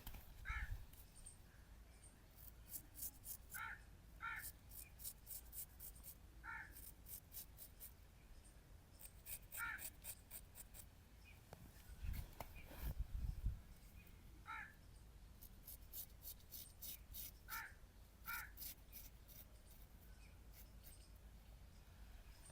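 Straight razor scraping across stubble in short strokes, each a quick run of fine crackles. Short pitched calls come every few seconds, and there are low knocks about twelve seconds in.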